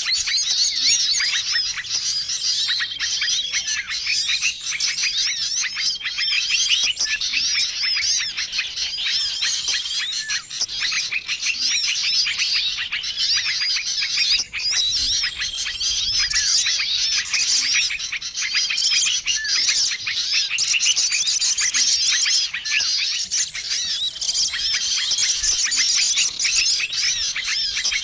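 A bird-lure recording: a dense, noisy chorus of many small songbirds chirping and twittering over each other. A short, level whistled note comes back every few seconds.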